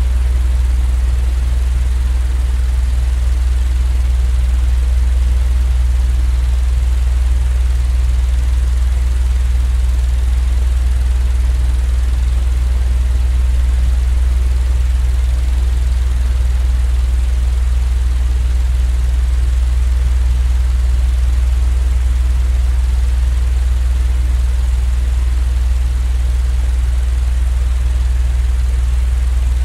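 Steady, unchanging low droning rumble, played as sleep white noise.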